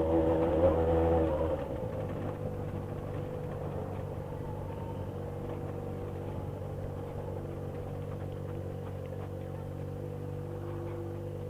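Yamaha XJ6 motorcycle's inline-four engine running. It is louder for the first second and a half, then eases off to a steady, even running at constant pitch.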